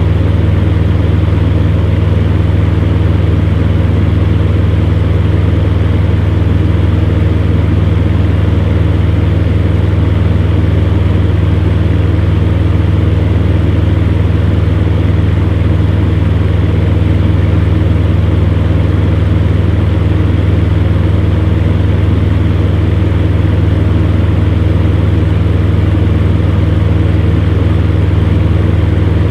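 Electric fan running steadily: a constant low motor hum under an even rush of moving air, with no change in speed.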